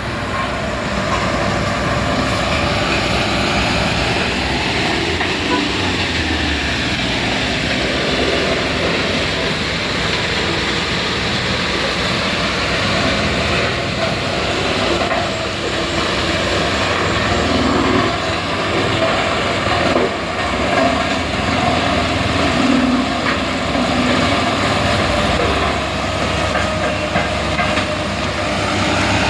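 Heavy diesel machinery and vehicles at a road-repair site, engines running steadily without a break.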